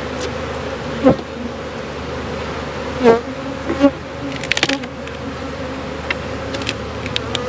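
Honeybees buzzing in a steady hum around an open hive, with a few short knocks in between.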